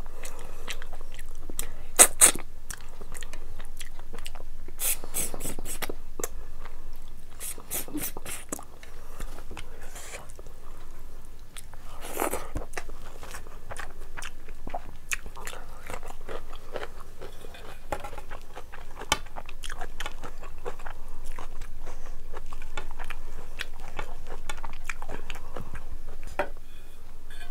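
A person chewing and biting mouthfuls of meat curry and rice, with sharp mouth clicks and crunches scattered irregularly through the chewing.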